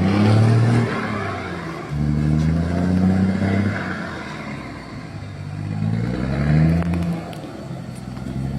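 Truck engine revving in three surges, rising and falling in pitch, as the stuck truck tries to drive out of deep mud.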